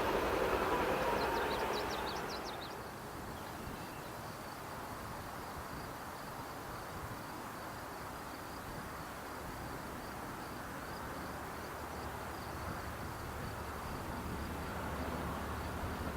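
A passing train's noise fades away over the first few seconds, leaving quiet outdoor background with a steady, rapid high chirping from an insect. A low rumble slowly builds near the end.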